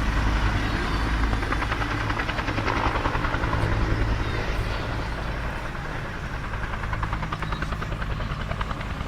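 Helicopter running, a fast even pulsing of the rotor over a steady low hum.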